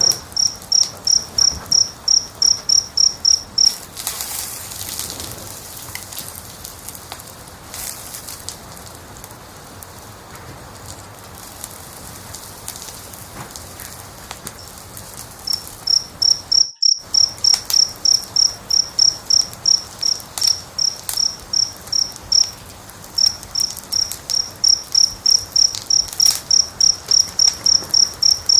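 A cricket chirps in a steady run of high chirps, about three a second, stops for roughly twelve seconds from about 4 s, then resumes. Underneath, a wood fire crackles and pops throughout, and the sound cuts out completely for an instant near the middle.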